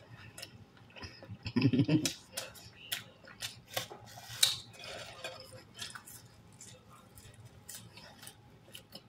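Close-up wet chewing and lip smacking while eating a saucy chicken sandwich: a string of small irregular mouth clicks, with one short, louder low mouth sound about a second and a half in.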